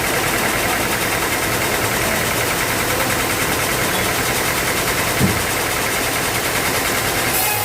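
Band sawmill running: a steady, dense machine noise with a fast rattling pulse, and a single thump about five seconds in.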